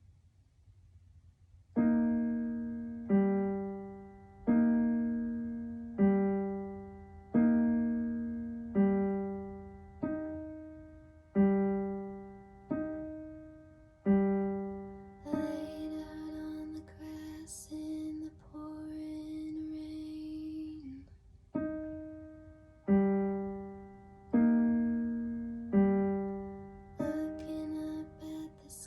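Piano playing a slow piece, starting about two seconds in. A chord is struck roughly every second and a half and left to ring and fade. In the middle the chords give way to longer held notes before the struck chords return.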